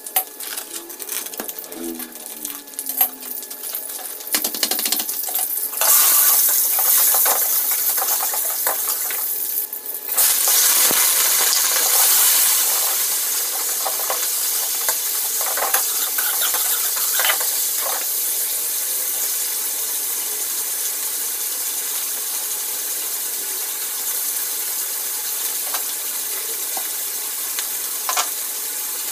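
Shallots, garlic, chilies and minced meat frying in hot oil in a wok, sizzling, with a metal spatula scraping and clinking against the pan. The sizzle starts as scattered clicks, grows louder about six seconds in and again about ten seconds in, then settles into a steady hiss.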